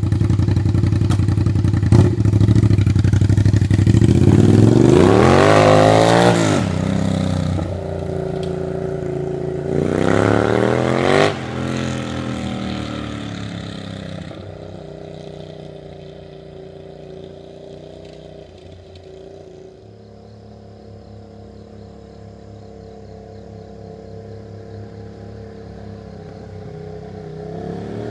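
Suzuki SV650's V-twin running straight-piped, with the muffler removed from its aftermarket headers: a loud, open exhaust note, revved up twice, each rev rising and then falling back in pitch. After the second rev it settles to a steadier running note that grows fainter, then swells a little near the end.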